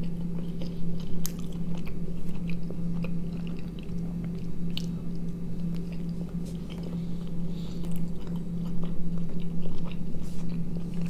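Close-up mouth sounds of a man chewing a bite of a tortilla wrap filled with sausage, tomato, cheese and sauce: irregular small wet clicks and soft crunches, over a steady low hum.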